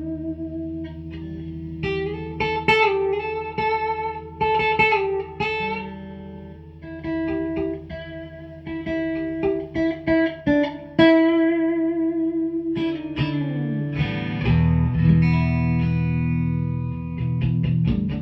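Electric guitar music played through effects: picked notes ringing over sustained tones, a downward pitch bend about thirteen seconds in, then lower, heavier notes take over.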